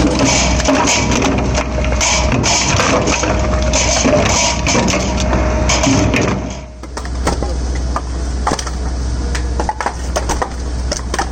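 F500 electric firewood processor splitting logs: a steady low motor hum under dense cracking and crunching of wood. The crunching eases about two-thirds of the way in and gives way to scattered knocks and clicks.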